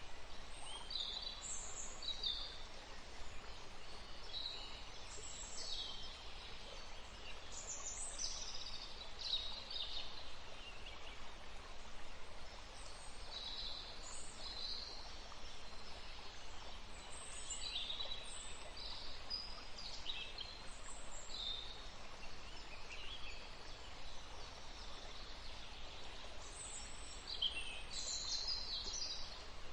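Birds chirping in short, high calls scattered throughout, over a steady background hiss.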